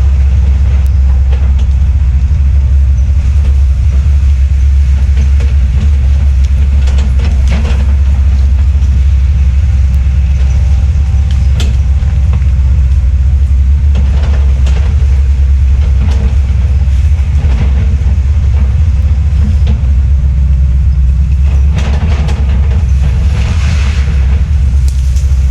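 Fecon Bullhog forestry mulcher on an ASV RT-120F tracked loader running hard over a deep, steady diesel drone, with irregular cracks and crackling as the drum shreds brush and wood, busiest in the middle and near the end.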